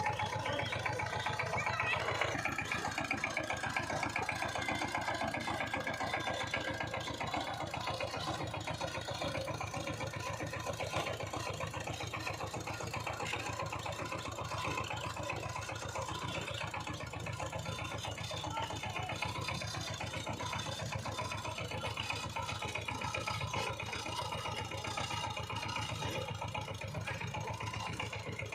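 Power tiller's diesel engine running steadily with a rapid, even chugging.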